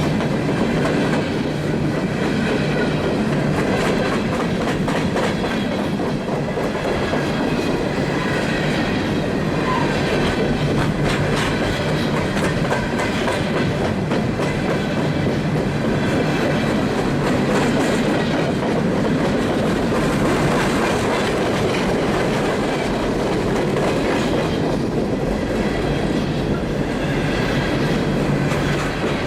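Freight train rolling by, with steady wheel-on-rail noise that holds at one level throughout.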